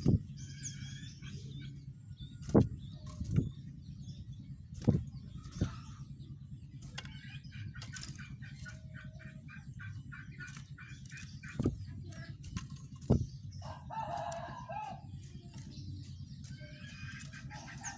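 Rengganis bird singing: short high chirps, then a long fast trill of ticking notes and a lower warble, with more chirps near the end. Six sharp knocks cut in, the loudest sounds, over a steady low hum.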